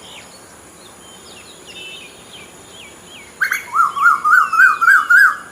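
Wild birds singing: a few faint, thin, falling chirps, then from about three and a half seconds in a loud run of repeated up-and-down notes, about three to four a second.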